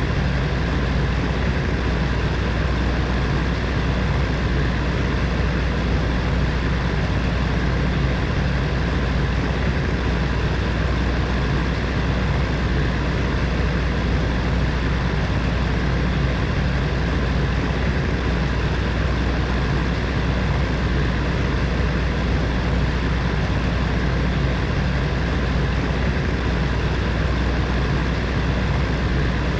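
Heater fan running steadily: an even rush of air over a low motor hum, unchanging throughout.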